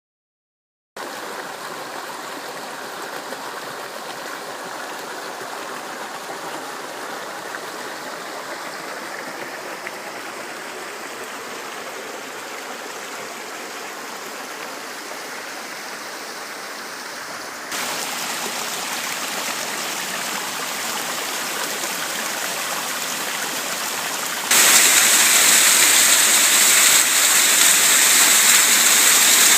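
Waterfall: water pouring and rushing in a steady roar. It starts about a second in, then turns abruptly louder and brighter twice, near the middle and again near the end.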